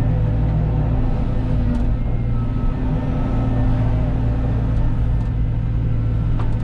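Cat 313 excavator's diesel engine running steadily at working speed, a constant low drone.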